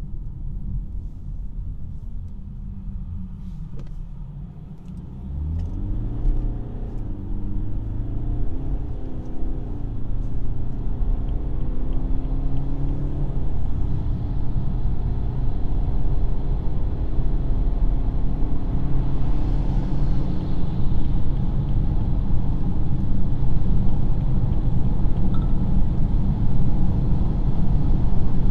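Inside the cabin of a BMW 220d coupe, its 2.0-litre four-cylinder turbodiesel pulls hard from about five seconds in, the engine note rising in pitch in several steps as the eight-speed automatic shifts up. It then settles into a steady loud drone of engine and road noise at motorway speed.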